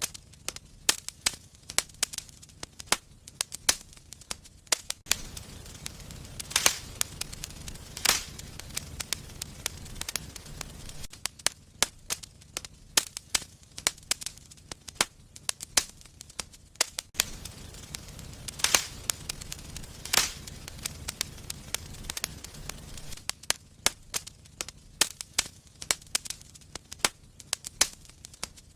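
Wood fire in a fireplace crackling, with frequent sharp pops at irregular intervals and a few louder snaps. A low rumble under the crackle grows louder twice for several seconds.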